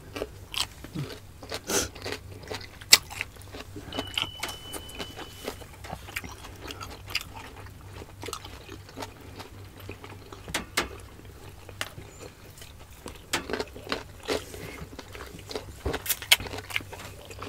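Siomai dumplings being chewed close to the microphone by two people: soft, wet mouth clicks and smacks at irregular intervals.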